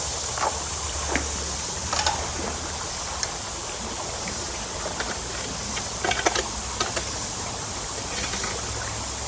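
Water running steadily, with scattered light knocks and clicks over it.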